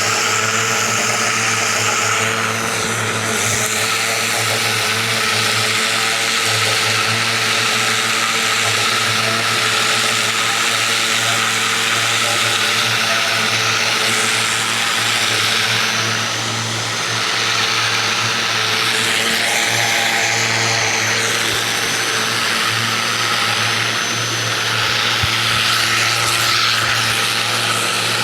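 Ryobi 2000 PSI electric pressure washer running, its motor humming steadily under the hiss of the water jet spraying a fence; briefly quieter just past halfway.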